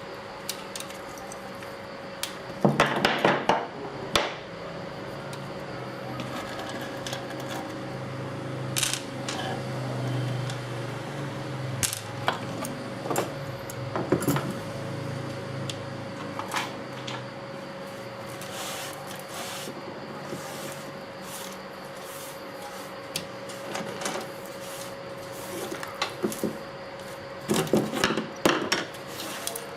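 Hand tools and small metal parts clinking and knocking while an old stick welding machine is taken apart, with clusters of quick knocks a few seconds in and near the end. A steady faint hum runs underneath.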